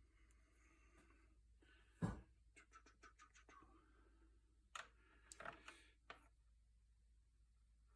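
Quiet handling of small parts at a workbench: a sharp knock about two seconds in, then a quick run of light clicks and, a little later, a few more scattered clicks and taps.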